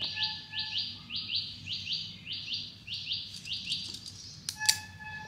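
A small bird chirping, short high notes in quick pairs repeating evenly, stopping about four seconds in. A single sharp click follows near the end.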